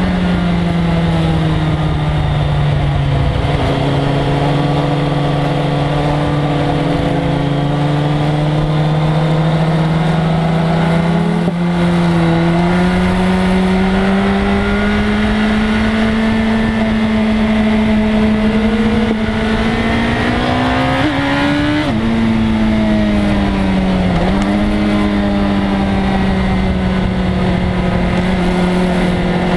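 A 1997 Suzuki GSX-R1100's inline-four engine at speed on a racetrack, its note climbing slowly under throttle. About three quarters of the way through it rises sharply and falls abruptly, as on a gear change, then dips briefly and settles to a steady drone. A constant low rush of wind noise runs underneath.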